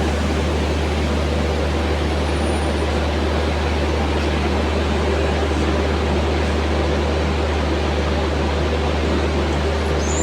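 Steady machinery hum from a train standing at a station platform: a loud, unbroken low drone with a faint steady tone above it.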